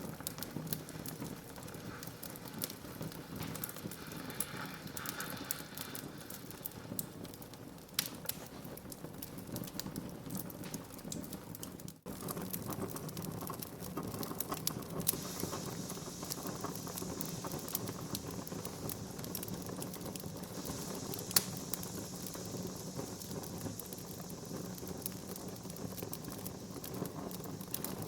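Wood fire burning in a fireplace: a steady crackle of small pops and snaps over a hiss that grows stronger in the second half, with one sharper pop a little past the middle. The sound drops out for an instant about twelve seconds in.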